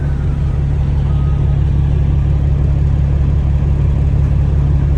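Kenworth W900B dump truck's Caterpillar C13 diesel engine running steadily with a constant low hum and no revving.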